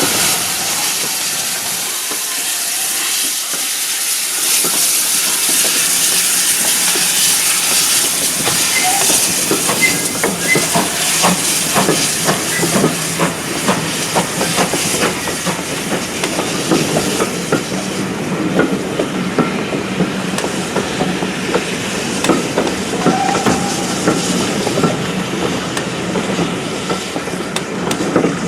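Preserved steam train passing: a steam hiss, then the carriage wheels clicking rapidly over rail joints from about eight seconds in.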